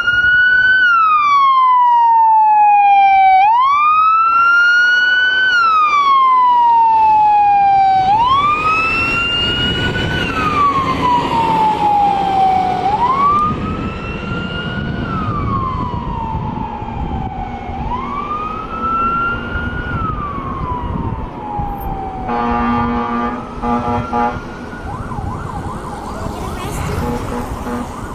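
Fire apparatus siren on wail, rising and falling about every two and a half seconds, loud at first and then fading as the truck moves away. About three-quarters of the way through, a horn sounds in quick short blasts, and a second siren winds up faintly near the end.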